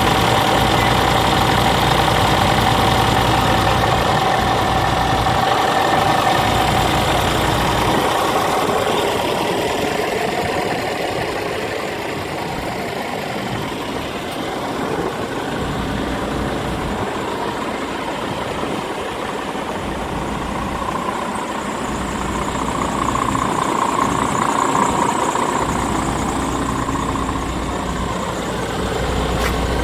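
Scania R450 tractor unit's 13-litre inline-six diesel engine idling steadily. Its sound falls off somewhat after about eight seconds and swells again in the last third.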